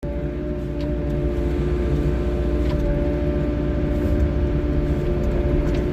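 A wheeled excavator's diesel engine runs steadily: a continuous low rumble with a steady held hum over it and a few faint clicks.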